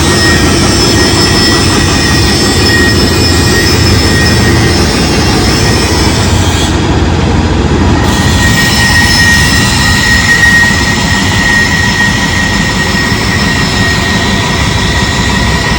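Heavy construction machinery running continuously and loudly: a deep engine rumble with several steady high-pitched whines over it. The highest whines drop out for a second or two about halfway through, then return.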